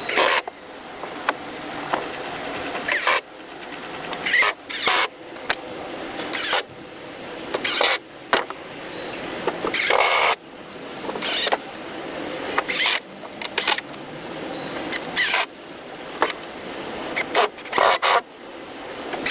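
Repeated strokes of a hand tool working wood: a rasping stroke that grows louder over about a second and a half, ending in a few sharp knocks, over and over at an even pace.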